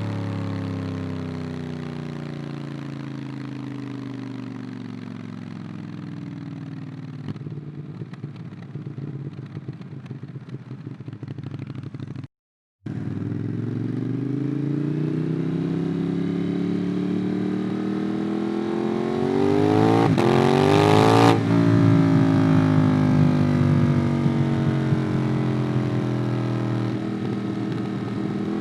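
Ducati Monster 821's L-twin engine through a QD Twin Gunshot exhaust, heard from the rider: it winds down in pitch on closing the throttle, with irregular crackles on the overrun. After a brief break in the sound about twelve seconds in, it pulls hard with rising pitch to a gear change about 21 seconds in, then runs on more steadily.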